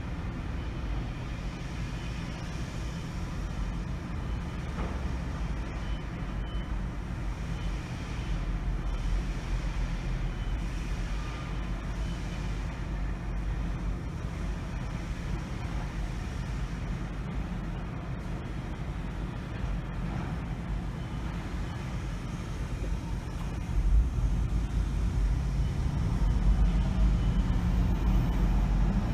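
Car driving in city traffic, its engine and tyre noise a steady low rumble that gets louder about five seconds before the end.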